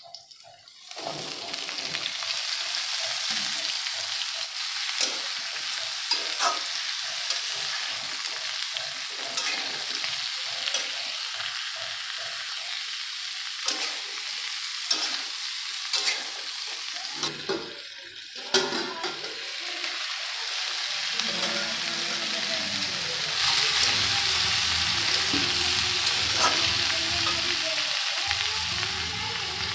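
Vegetables sizzling in hot oil in a kadhai: first sliced onions and green chillies, then cauliflower florets and potato cubes. A metal spatula stirring and scraping the pan gives scattered sharp clicks. The sizzle gets louder in the last third, with a low hum underneath.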